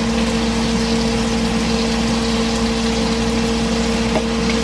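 Seasoning frying on the stove in a steady, even hiss, with a steady low hum underneath.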